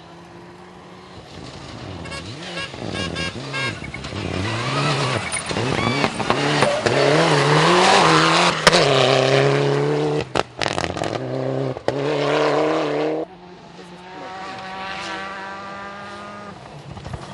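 N4-category rally car engine revving hard, its pitch climbing and dropping through gear changes as the car comes closer, loudest about two-thirds of the way through, with a few sharp cracks. It cuts off suddenly near the end to a quieter, steadier engine note.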